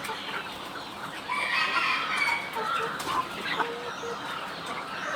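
A flock of penned chickens clucking and calling, many short overlapping calls at once, getting louder about a second and a half in.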